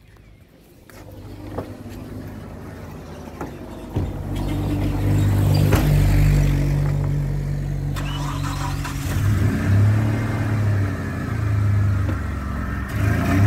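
Trooper SUV's engine starting about four seconds in, then running with its speed rising and falling.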